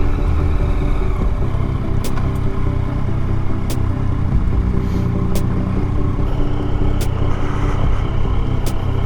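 Motorcycle engine running steadily as the bike is ridden, with a sharp light tick recurring about every second and a half.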